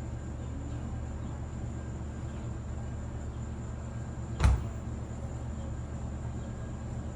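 A single sharp crack with a low thump about four and a half seconds in, over a steady low background rumble.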